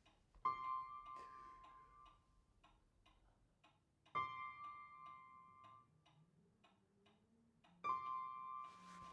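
Quick, even ticking, with a bell-like tone struck three times about four seconds apart, each strike ringing out for about a second.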